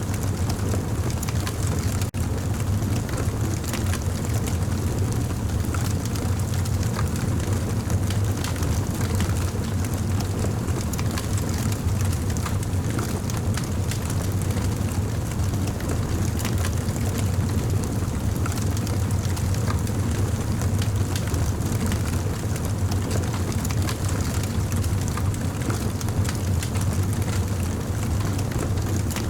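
Campfire burning steadily: a constant low rumble of flames with many small scattered crackles and pops.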